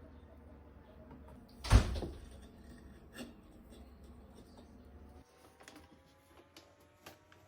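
A single sharp knock about two seconds in, over a low hum that cuts off a few seconds later, followed by a few faint clicks.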